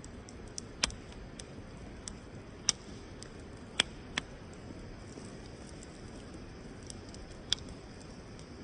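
Wood campfire crackling: sharp, irregular pops a second or more apart, over a steady background hiss.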